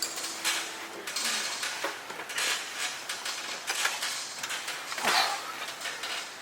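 Metal hand tools and parts clinking, scraping and rattling in irregular short knocks while turbo piping is fitted and clamped.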